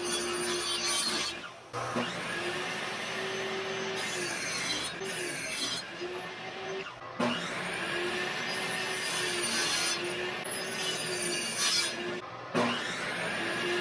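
A tool working wood, a steady rubbing, rasping sound with a faint hum under it, cut off abruptly and resuming several times.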